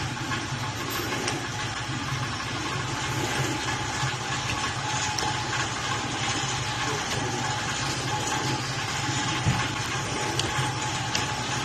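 Steady machine hum with a thin constant tone in it, and one short knock about nine and a half seconds in.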